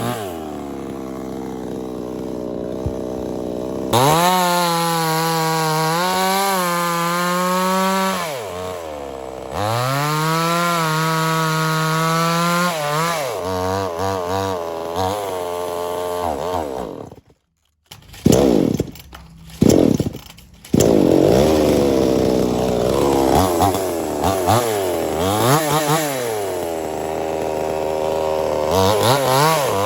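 Mini chainsaw's two-stroke engine revving up and running at high revs through several cuts in wood, dropping back toward idle between them. Its pitch sags and wavers as the chain bites into the log. The sound cuts out briefly about halfway through before the saw revs again.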